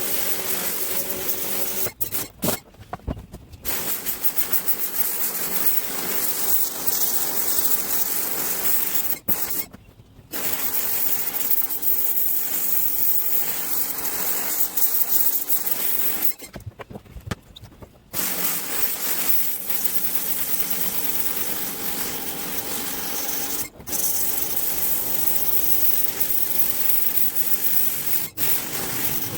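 Pressure washer spraying the truck's body, a steady loud hiss of water jet on metal, cutting out briefly about five times as the trigger is let go.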